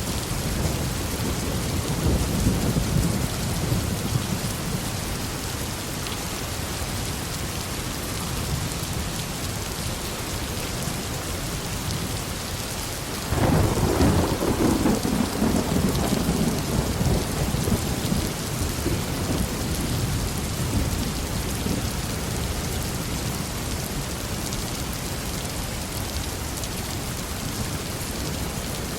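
Steady heavy rain with thunder: a low rumble in the first few seconds, then a sudden, louder clap about thirteen seconds in that rolls away over the next several seconds.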